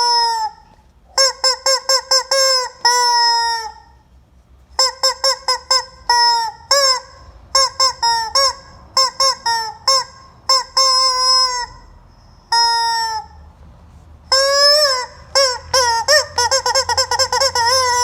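Rubber chicken squeeze toy squawking as it is squeezed over and over: runs of quick short squeaks alternate with longer drawn-out squawks, all at much the same nasal honking pitch.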